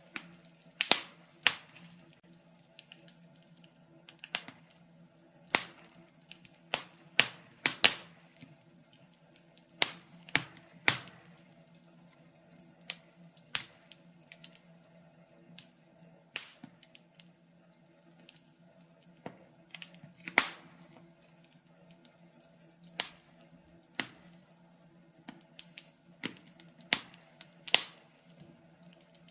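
Wood fire in a fireplace crackling: irregular sharp pops and snaps, some much louder than others, every second or so over a faint steady low hum.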